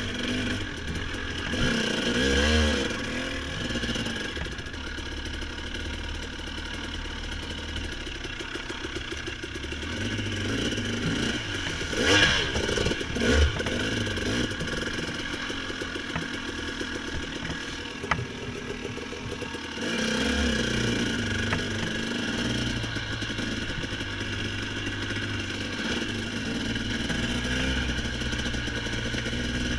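Dirt bike engine running as it is ridden, the revs rising and falling with the throttle, with a few loud knocks and rattles about twelve seconds in.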